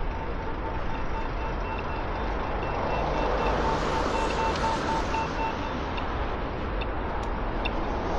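City street traffic running steadily, with a rapid electronic beep repeating at one pitch through the first part that stops about five and a half seconds in.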